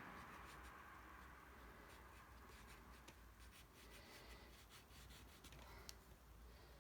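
Near silence: faint dabs and strokes of a paintbrush on watercolour paper, a few soft ticks over quiet room tone.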